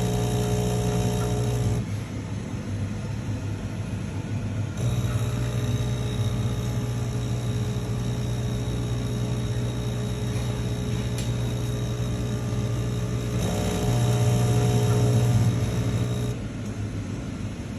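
DeLonghi PrimaDonna Elite automatic coffee machine running, a steady mechanical hum with a few held tones. It grows louder and brighter near the start and again for a few seconds near the end, and drops back in between.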